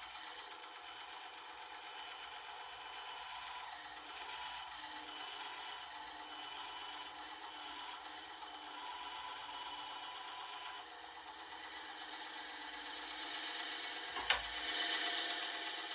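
Bandsaw running steadily as it cuts MDF board, a constant whine over the hiss of the blade, with a sharp click about fourteen seconds in.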